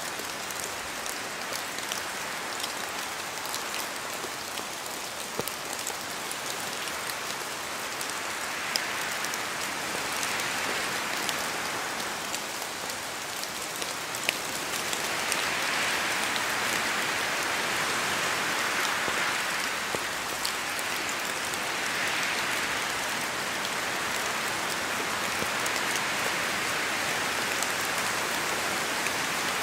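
Steady rain in a forest, with scattered heavier drops ticking as they fall from the trees. The sound swells louder several times as the wind gusts.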